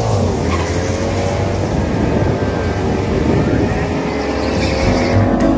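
Audi S6's 5.2-litre V10, running with no catalytic converters and a cat-back exhaust, at full throttle on a drag run as the car pulls away down the strip. The pitch drops with an upshift right at the start, then climbs steadily through the next gear.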